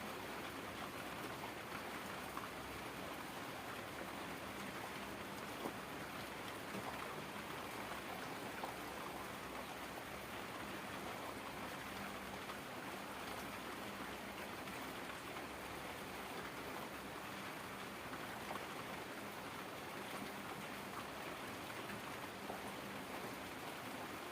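Heavy rain falling steadily: an even, unbroken hiss with scattered drop ticks.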